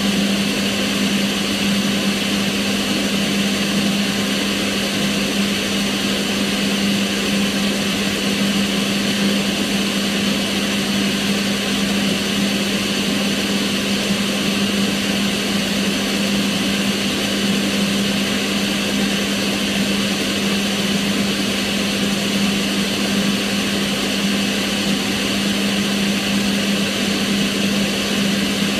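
Kitchen range hood extractor fan running steadily, a constant rush of air with a hum.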